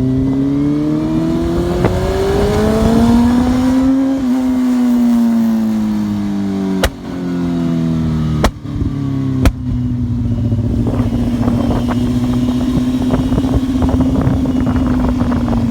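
Quad bike's Honda CBR600F2 inline-four engine under hard riding. It revs up for about four seconds, then eases off. Three sharp cracks follow, each with a brief drop in level and the engine note stepping lower, as through gear changes. The engine then runs at steady revs.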